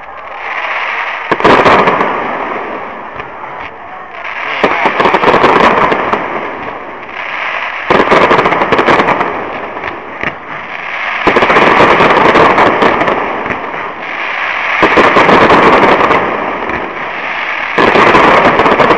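Aerial fireworks going off in volleys about every three to four seconds, each starting with a sudden bang and followed by a couple of seconds of dense crackling.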